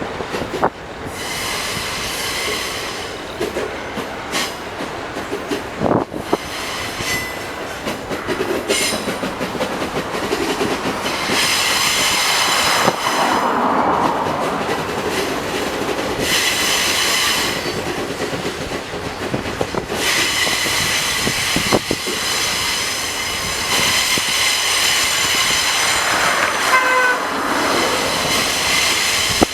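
Freight train cars rolling past on a tight curve, with a steady rumble and clatter of the wheels, and the wheel flanges breaking into high-pitched squeals in several long stretches.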